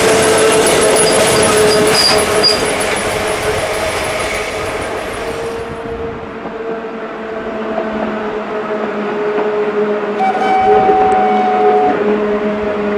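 Train Jaune electric railcars rolling past close by, with rattling wheel and running noise and a steady motor whine. About six seconds in, the sound turns quieter and duller as the train is heard approaching from farther off. A brief high whistling tone comes near the ten-second mark.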